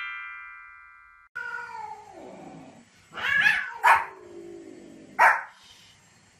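A ringing chime fades out and cuts off. Then a cat and a small dog are heard: a long call falling in pitch, a louder cry, and two sharp barks about a second apart.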